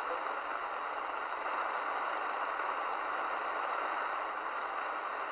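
Midland Alan 8001 CB radio receiver giving a steady band-noise hiss through its speaker with the squelch open, an empty channel between transmissions on the 11 m freeband.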